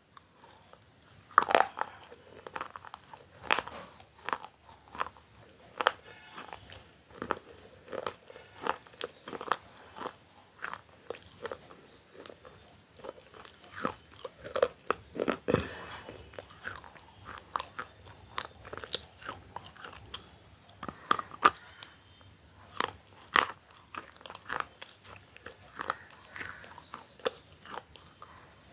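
A person biting and chewing crunchy food close to the microphone: many sharp, irregular crunches with softer chewing between.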